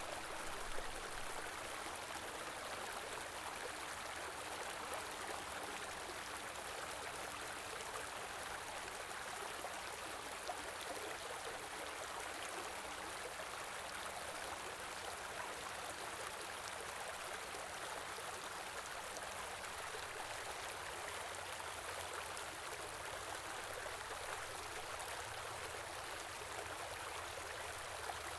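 A stream flowing steadily: an even, continuous rush of running water.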